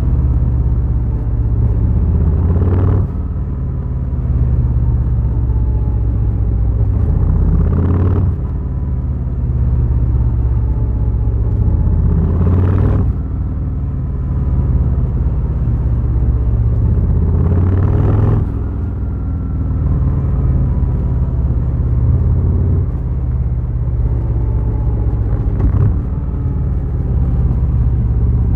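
Harley-Davidson Fat Boy's V-twin engine running under way, a loud low rumble. The rumble drops off briefly with a click about every five seconds, then builds again.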